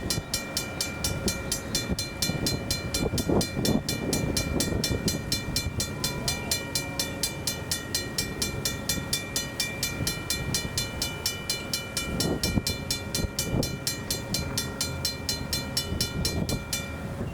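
RACO mechanical crossing bell on a grade-crossing signal ringing rapidly, about six strokes a second, then stopping suddenly near the end. An irregular low rumbling runs underneath.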